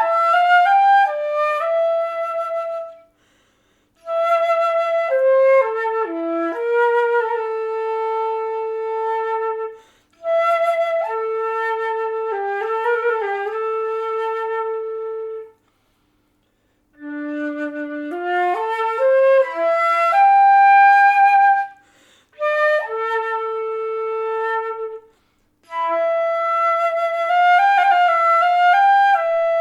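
Solo flute playing a slow improvised melody in phrases, long held notes with short breaths of silence between phrases.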